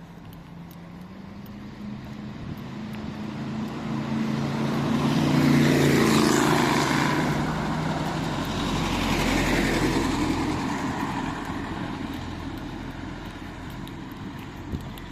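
Road vehicles driving past: engine and tyre noise build to a peak about six seconds in, swell again a few seconds later, then fade away.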